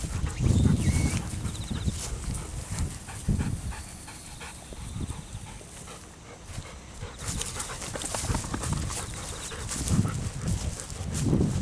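Wind buffeting the microphone in gusts, with a golden retriever panting.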